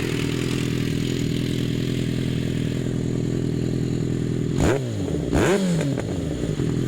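Yamaha XJ6 Diversion's 600 cc inline-four idling steadily through an aftermarket XPR exhaust. A little past the middle it is given two quick throttle blips in a row, the revs jumping up and falling back to idle each time.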